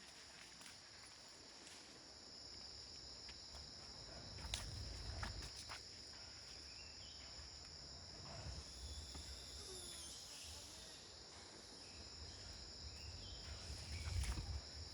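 Steady, high-pitched chorus of insects, crickets or cicadas, with a few low rumbles and soft knocks about four seconds in and again near the end.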